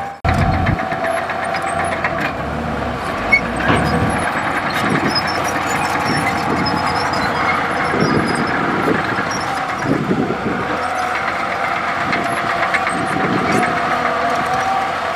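Komatsu D65E bulldozer's diesel engine running steadily, with scattered knocks and clanks over it.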